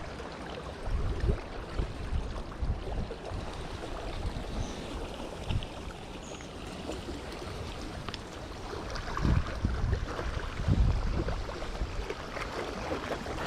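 Strong wind buffeting the microphone in uneven low gusts over a steady rush of noise, the gusts heavier in the last few seconds.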